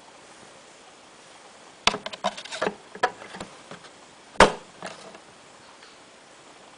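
Hard clicks and knocks: a quick irregular run of them about two seconds in, then one sharp knock, the loudest, about four and a half seconds in, over a steady faint hiss.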